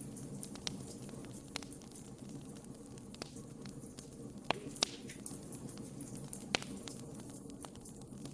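Burning wood crackling in a fireplace: irregular sharp pops and snaps over a steady low hiss, with a few louder pops about halfway through.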